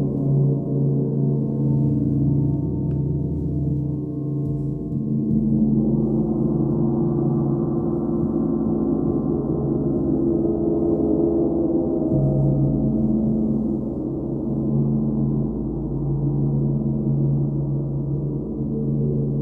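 Sound-bath playing: layered, sustained ringing tones that swell and blend. New tones come in about five seconds in and again near twelve seconds.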